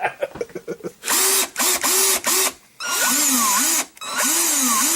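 Black & Decker GC1801 18-volt cordless drill motor run in short bursts from about a second in, its pitch swooping up and down as the trigger is squeezed and eased, with a few brief stops.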